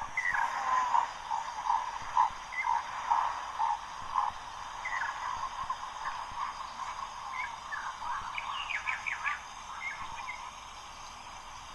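Bird calls: a run of short, low, repeated notes in the first four seconds, then scattered higher chirps and a quick series of rapid notes a little past the middle.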